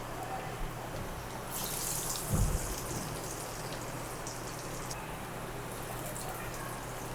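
Hot oil sizzling and crackling as pesara garelu (green gram fritters) deep-fry, with a sudden louder sizzle about a second and a half in and a dull knock a second later.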